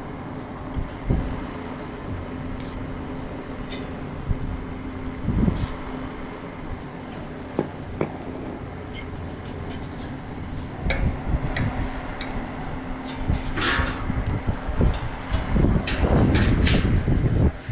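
Hand work on an HVAC condenser fan motor: scattered clicks and knocks over a steady low hum, with heavier rattling and rubbing near the end.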